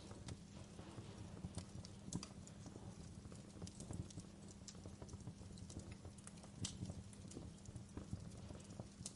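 Wood fire in a fireplace crackling: irregular snaps and pops of burning logs over a low steady rumble, with the sharpest pops about two seconds in and again near seven seconds.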